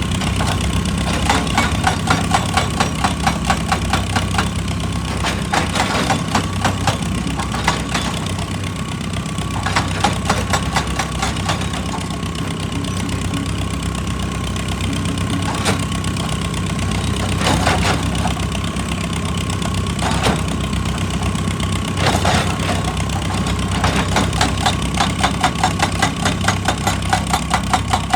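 Heavy excavator's diesel engine running steadily, with several bursts of rapid rhythmic knocking, about three to four strikes a second, loudest near the start and again near the end.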